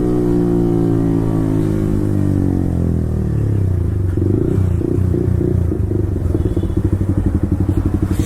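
Yamaha R15 V4's single-cylinder engine through a full-system Akrapovic exhaust, engine braking as the bike downshifts to slow: the revs wind steadily down for about three seconds, then settle into a lumpy, pulsing idle.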